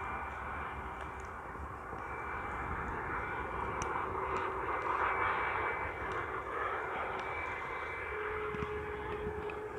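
Airliner engines running with a steady whine over a roar that swells to a peak about halfway through and then eases, with wind rumbling on the microphone.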